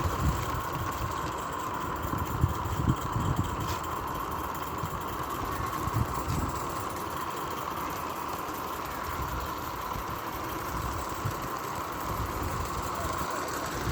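Scratch-built 0-4-0 narrow gauge live-steam model locomotive running, a steady mechanical running sound.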